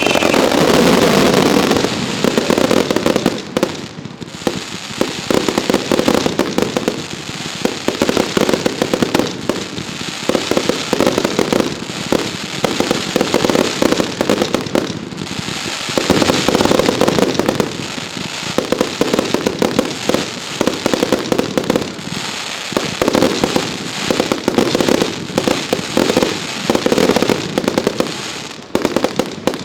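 Professional fireworks display: a dense, continuous barrage of rapid bangs and crackling that swells and eases in waves.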